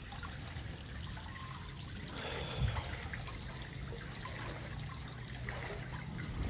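Floodwater trickling and moving, with a steady low hum underneath and a brief louder splash-like patch about two and a half seconds in.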